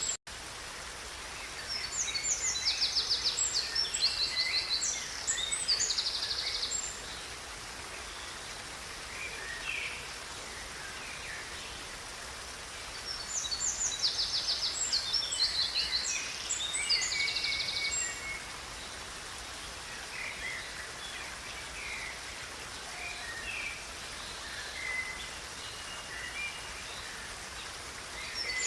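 Songbirds singing over the steady rush of a river. Two long bursts of song with fast trills come about two seconds in and again near the middle, with scattered chirps between them.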